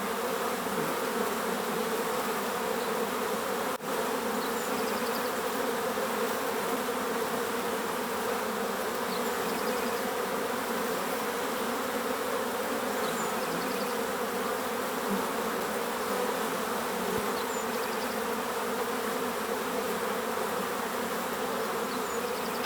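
Many bees buzzing in a dense, steady hum. Faint short bird chirps recur every four or five seconds, and the hum dips for an instant about four seconds in.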